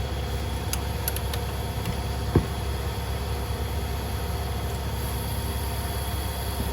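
Steady machine hum with a low rumble throughout, broken by a few light clicks about a second in and one sharp knock about two and a half seconds in, like tools or parts being handled.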